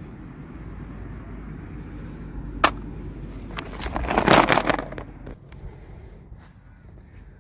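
Toy packaging being handled during an unboxing: a sharp click about two and a half seconds in, then a louder burst of crackly rustling for about a second and a half, followed by a few light clicks, over a low steady hum.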